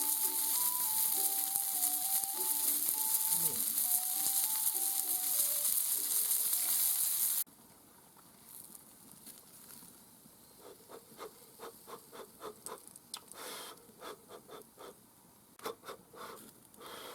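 Chicken sizzling loudly as it grills over the fire, with a simple plinking melody over it; the sizzle cuts off abruptly about halfway through. After that, quieter irregular crunching and clicking, a few times a second, of someone chewing the grilled chicken.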